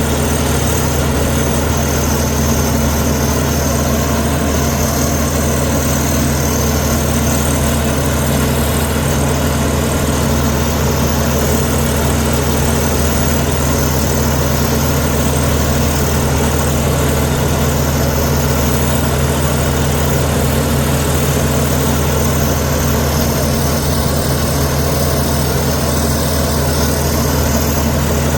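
Heavy diesel engine of a Komatsu D61EX bulldozer running steadily at an even pitch, with no revving or knocks.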